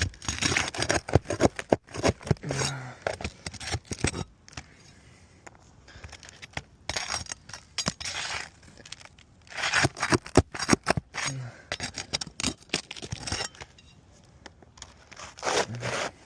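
Metal roofing tool scraping and clicking against asphalt shingles in repeated bursts with short pauses between, as a shingle is worked loose.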